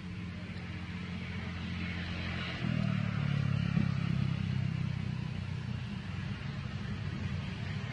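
A steady low motor hum, like a running engine, that gets louder about two and a half seconds in.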